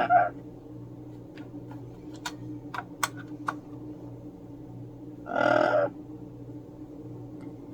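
A parrot squawks twice: a short call at the very start and a louder one of about half a second about five seconds in. Between the calls come a few light clicks and taps, over a steady low hum.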